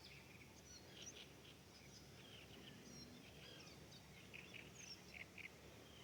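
Faint birdsong: several small birds chirping and twittering in short, scattered notes over a low background hum.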